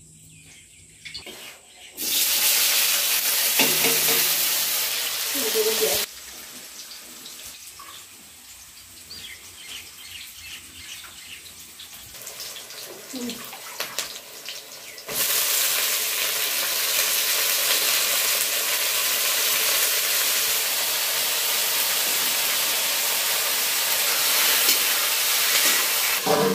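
Sliced vegetables sizzling as they fry in hot oil in a steel wok, a loud steady hiss. It starts suddenly about two seconds in and cuts off a few seconds later. After a quieter stretch it comes back about halfway through and runs on.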